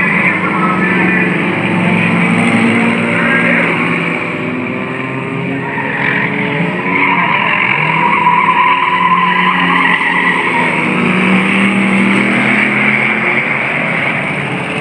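Several junk cars and trucks racing, their engines running hard and revving up and down over one another.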